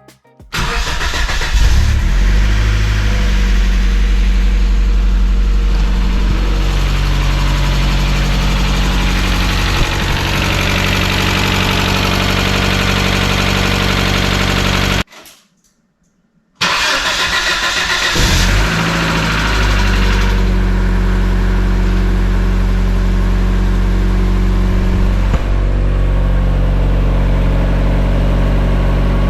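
1996 Mazda Miata's 1.8-litre four-cylinder engine cranked and starting, then running at a raised idle. It ticks a little right after startup and quiets once oil reaches the new hydraulic lifters, which the owner takes to be normal for a Miata. After a brief break it is started again and settles to a steady idle.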